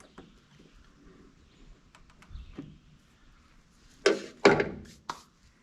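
Pliers setting a hose clamp on a mower's rubber fuel line: faint handling, then two sharp clacks about four seconds in and a lighter click just after.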